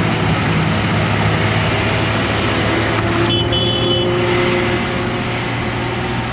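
Lorry's diesel engine running with a steady low drone, with a brief high-pitched tone about three seconds in.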